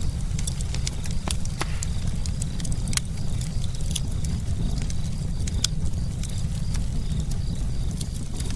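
Campfire burning, with wood crackling and popping in sharp, irregular snaps several times a second over a steady low roar.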